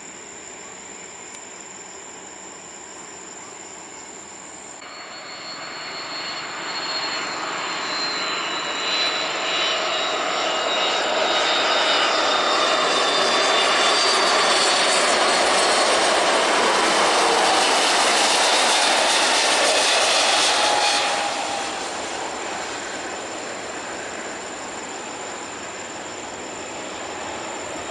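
Jet airliner passing close by. Its engine noise builds over several seconds and holds loud for about ten seconds, with whining tones gliding down in pitch. Then it drops off suddenly to a lower rumble.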